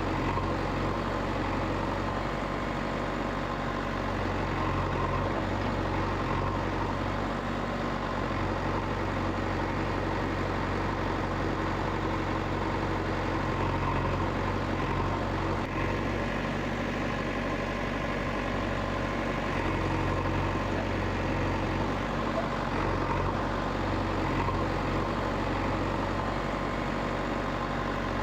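Heavy vehicle engine running steadily at low revs, with no change in speed.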